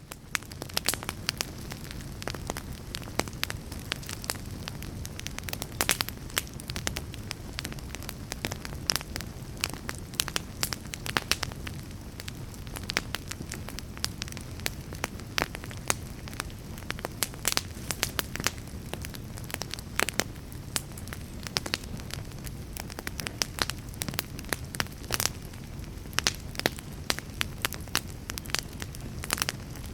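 Crackling fire: a steady low rush of flames with frequent sharp, irregular pops and snaps.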